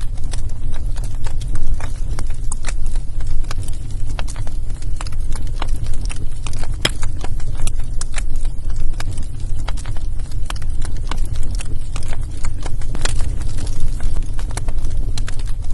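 Wood fire crackling in a fireplace: many irregular pops and snaps over a steady low rumble.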